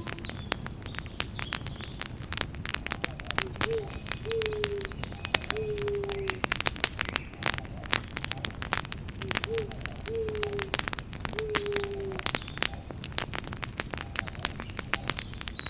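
Campfire crackling, with many sharp pops over a steady low rush of flames. An owl hoots a short three-note phrase twice, a few seconds apart, the last note of each phrase falling slightly.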